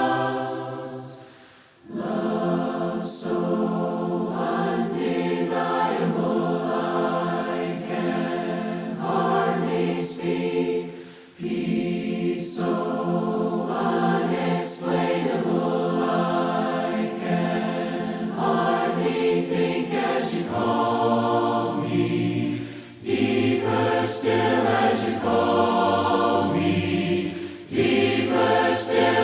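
A choir singing a hymn a cappella in harmony, voices only, in long phrases with brief pauses for breath between them.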